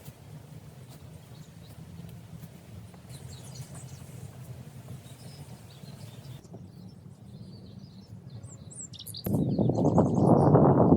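Small birds chirping now and then over a steady low background rumble; about nine seconds in, a loud rushing noise starts suddenly and runs on to the end.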